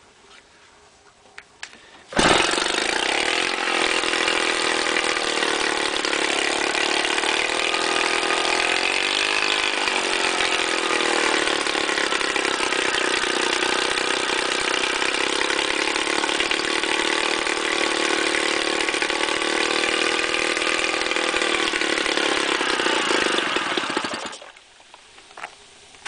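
British Seagull 40 single-cylinder two-stroke outboard motor started from cold: it catches suddenly about two seconds in and runs evenly, with a brief dip and rise in speed, then is cut off near the end.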